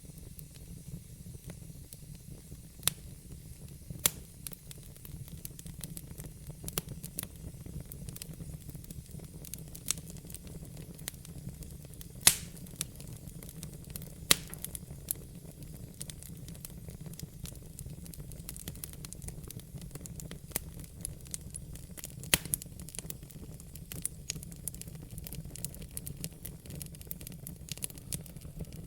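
Log fire in a fireplace crackling, with a steady low rumble under many irregular sharp pops and snaps. The loudest pop comes about twelve seconds in.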